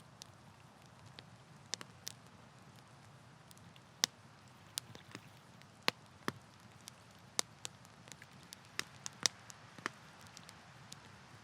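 Wood campfire crackling: irregular sharp pops and snaps, a few louder than the rest, over a faint steady low hiss.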